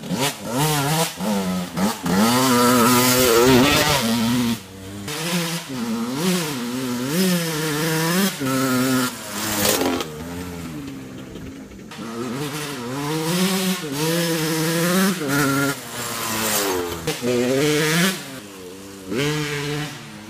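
Dirt bike engine being ridden, revving up and down over and over as the throttle is worked. Its pitch rises and falls every second or two, and it eases off for a couple of seconds around the middle.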